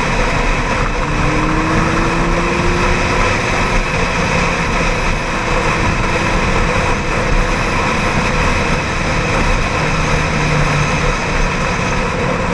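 Ducati 795's air-cooled L-twin engine running on the move, under a steady, loud rush of wind and road noise.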